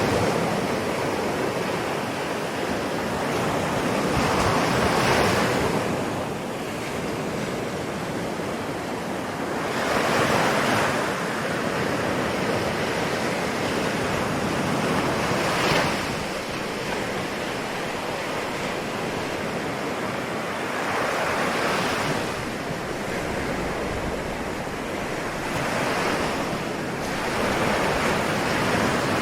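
Ocean waves breaking and washing on the shore in a steady hiss, with a wave cresting every five or six seconds.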